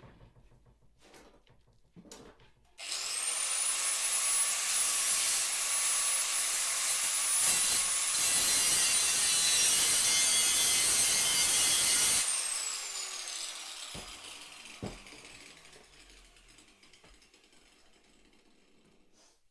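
A handheld power tool switched on about three seconds in, running hard on metal with a high whine for about nine seconds, then switched off, its whine falling as it spins down. A couple of knocks follow near the end.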